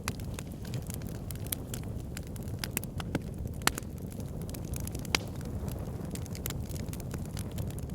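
Wood fire burning in a backyard fire pit: a steady low rumble of flames with frequent sharp crackles and pops, a few of them louder, one at about three and a half seconds in and another about five seconds in.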